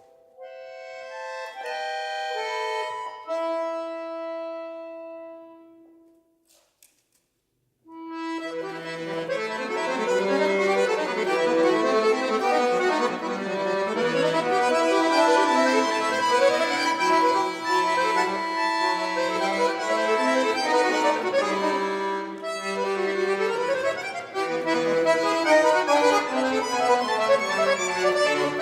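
Solo bayan (Russian button accordion) playing a folk-song arrangement: slow held chords fade into a brief pause, then about eight seconds in a fast, dense variation with bass notes starts.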